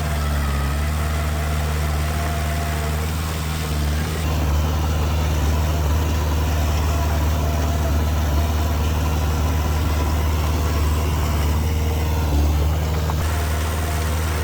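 Heavy diesel machinery engine running steadily, growing slightly louder about four seconds in.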